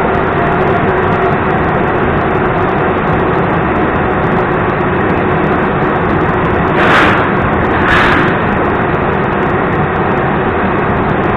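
Russian Railways passenger coaches rolling past a platform as the train pulls out: a steady rumble and rush of wheels on rail. Two louder swells come about a second apart near the end.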